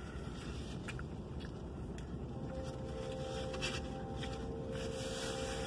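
A mouthful of burrito being chewed, with faint scattered wet clicks, over a low steady rumble. A faint steady tone comes in about two seconds in.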